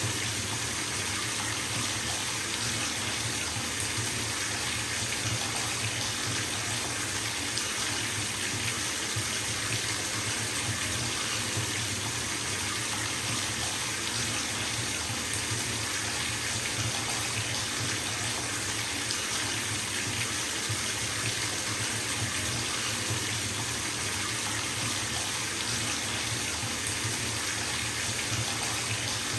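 Bathtub filling from a running faucet: a steady stream of water splashing into the tub, an even hiss with a low rumble underneath.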